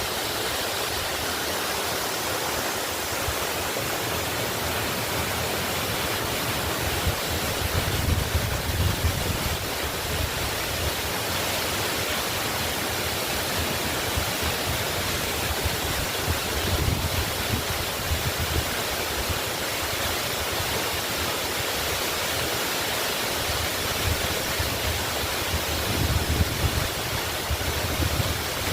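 Waterfall rushing steadily, an even roar of falling water, with a deeper low rumble swelling up briefly three times.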